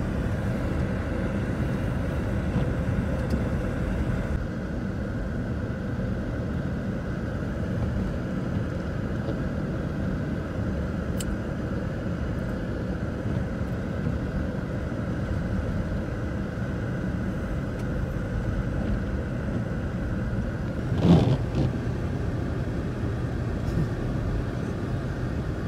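Steady road and engine rumble of a car driving, heard from inside the cabin, with one sharp thump about three quarters of the way through.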